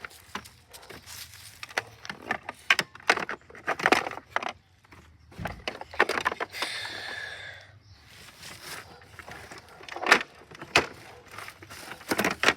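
Irregular clicks and knocks of toys being handled, with a scraping rustle lasting over a second about six seconds in.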